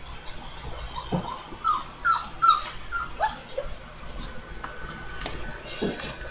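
Dog whimpering: a quick run of short, high whines, each falling in pitch, then a few scattered ones, with light rustling.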